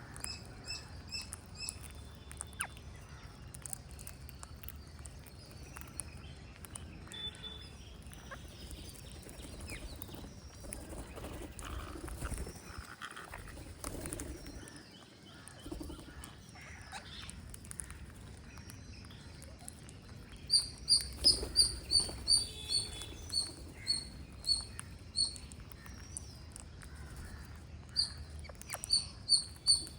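Green parrots chirping: soft warbling chatter, then loud runs of short, sharp repeated chirps at about three a second, twice in the second half.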